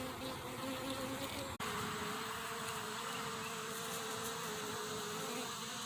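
Honeybees buzzing in a steady hum. There is a brief break about a second and a half in, after which the hum continues at a slightly lower pitch.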